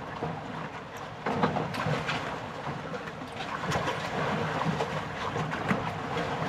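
Strong wind buffeting the microphone over choppy water slapping against a small boat's hull, a rough, uneven rush with scattered sharp slaps.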